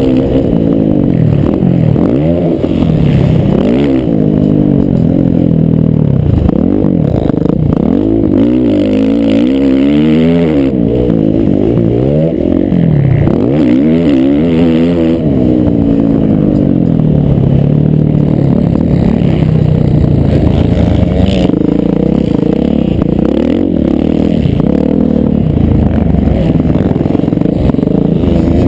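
Motocross dirt bike engines revving loudly, their pitch rising and falling every second or two as the riders work the throttle and shift around the track, with more than one bike heard at times.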